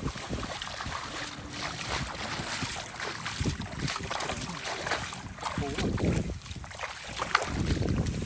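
Water splashing and sloshing in irregular bursts, with wind buffeting the microphone.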